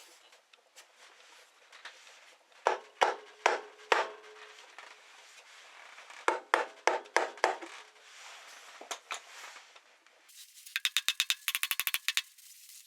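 Metal tools and parts clinking and knocking as they are handled on the scooter. A ratchet wrench starts clicking rapidly and evenly about ten seconds in.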